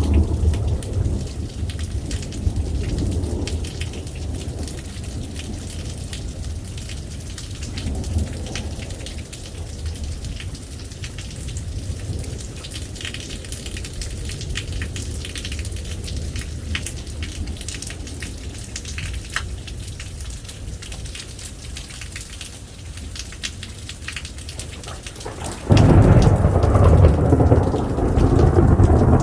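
Thunderstorm: steady rain with sharp drop clicks close by, and a thunder rumble that dies away over the first few seconds. Near the end a loud peal of thunder breaks in suddenly and keeps rumbling.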